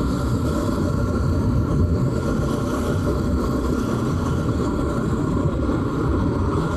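Bajaj Pulsar 200 NS motorcycle riding along at a steady speed: its engine running under a constant rush of wind on the microphone.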